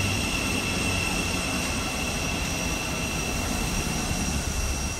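Train approaching at speed along the main line: a steady rushing rumble with a thin, high, constant ringing tone above it.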